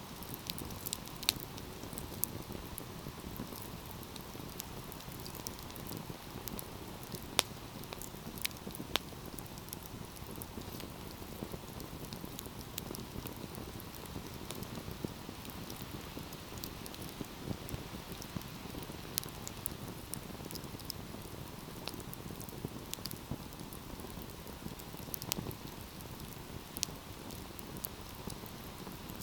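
Wood fire crackling, with a steady low hiss and rustle under scattered sharp pops and snaps; a few louder pops stand out, the loudest about a second in and about seven seconds in.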